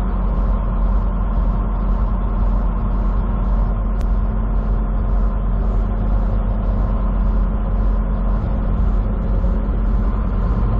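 Semi truck's engine and road noise heard from inside the cab while driving: a steady low drone with a faint hiss that pulses about twice a second.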